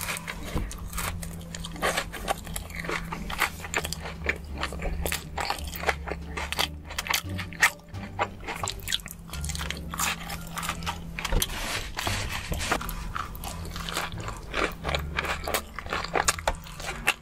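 Close-miked eating: chewing and biting of sauce-covered animal fries and a cheesy hot dog, with many short wet mouth clicks. Background music with a steady low bass plays underneath.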